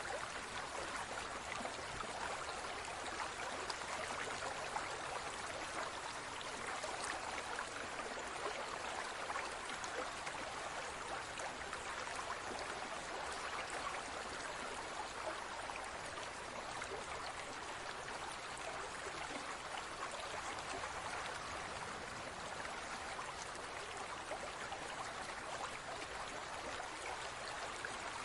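Steady trickling and splashing of water in a large aquarium, an even rushing noise with fine drop-like patter and no change over time.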